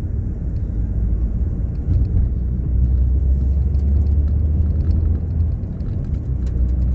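Ford Fiesta Mk7 driving along, a steady low rumble of engine and road noise that grows louder about two seconds in.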